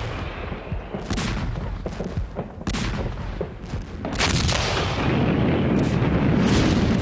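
Artillery barrage: repeated sharp gun blasts and shell explosions over a continuous rumble, growing louder about four seconds in.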